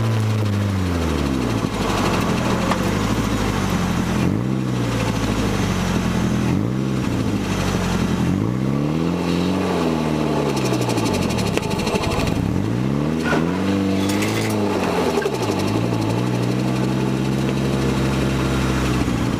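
Nissan SR20DET turbocharged four-cylinder of an S14 Silvia heard from inside the cabin, its pitch falling off at the start, then rising and falling about four times as it is driven through light acceleration and lifts, and holding steady at low revs near the end.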